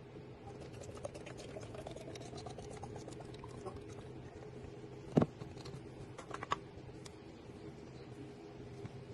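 Small clicks and taps of packaged items and containers being handled and set down, with one sharper knock about five seconds in, over a faint steady low hum.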